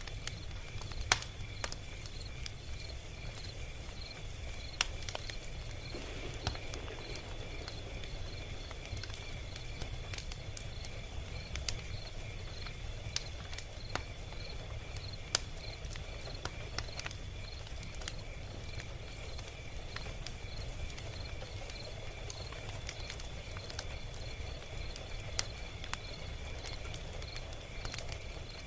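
Log fire crackling, with irregular sharp pops and snaps over a low, steady rumble of burning. A few pops stand out louder, about a second in and again near 5 and 15 seconds. A faint, evenly pulsing high chirp runs underneath.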